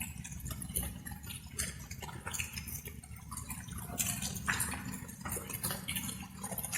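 Light rain: drops falling and splashing irregularly, with a low steady rumble underneath.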